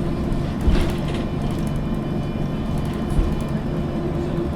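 Interior of a MAN NG 313 CNG articulated city bus under way: the natural-gas engine and drivetrain running with a low rumble and a steady hum. Two short knocks, about a second in and again near three seconds, from the body riding over bumps.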